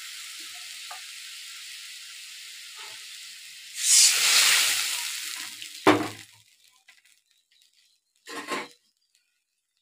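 Spice paste of turmeric, green chilli paste and chilli powder sizzles steadily in hot oil in a steel kadai. About four seconds in, water is poured in and sets off a loud burst of hissing that fades away. A sharp knock follows, the sizzling dies down, and there is one more brief clatter near the end.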